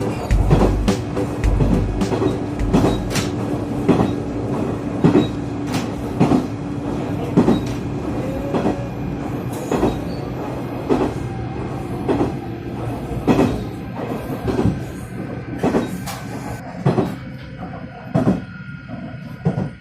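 Railcar wheels clicking over rail joints in a steady clickety-clack, with a running rumble and a low steady hum. Toward the end the clicks come further apart and the sound fades as the train slows down.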